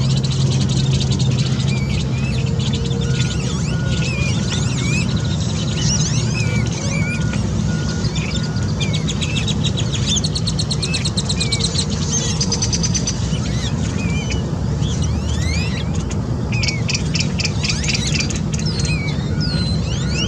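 Several birds chirping and calling: short upward-sliding chirps throughout, with fast rattling trills about halfway through and again near the end, over a steady low rumble.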